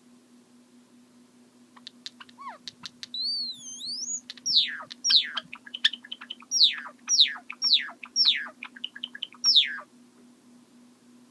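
Java sparrow singing: a run of dry clicks, a wavering whistled note, then a string of about seven quick falling notes with clicks between them.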